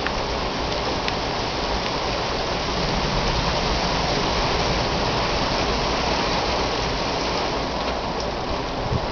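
Rain falling steadily, a dense even hiss of drops that swells a little in the middle.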